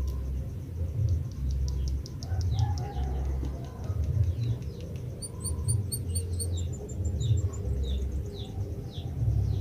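White-headed munia singing: a run of thin, high whistles, each sliding downward, repeated over and over, with a quick series of higher pips near the middle. A steady low rumble runs underneath.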